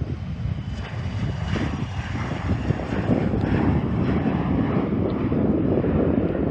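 Jet airliner engines running as the aircraft passes: a steady rushing noise with a faint high whine, growing slightly louder.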